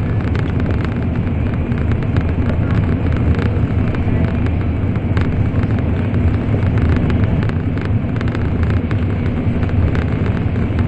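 Inside the passenger cabin of a Shinkansen bullet train running at speed: a steady, loud low rumble of wheels on rail and air rushing past, sprinkled with small rapid clicks and rattles.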